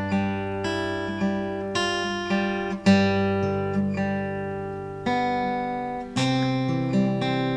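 Acoustic guitar played fingerstyle: single plucked melody notes in slow waltz time over a bass note left ringing, with a new bass note struck about five and six seconds in.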